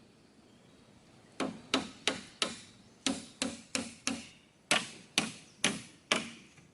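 A hand tool striking something hard about a dozen times, roughly three sharp knocks a second, starting about a second and a half in, typical of chopping or hammering while building a camp.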